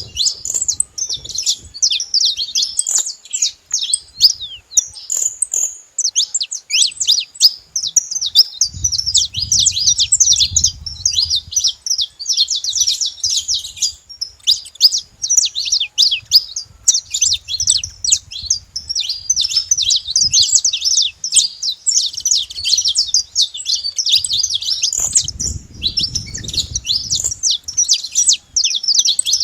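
A flock of saffron finches chirping and singing together, many quick high calls overlapping in a continuous chatter.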